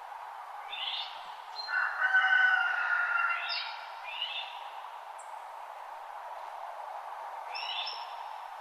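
Wild birds calling at dawn over a steady background hiss. The calls are several short chirps sweeping downward, and loudest, about two seconds in, a run of steady whistled notes.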